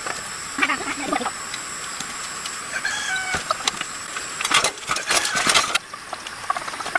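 Short animal calls, bird-like, about half a second in and again near three seconds, then a stretch of harsh noisy rasping about four and a half to six seconds in.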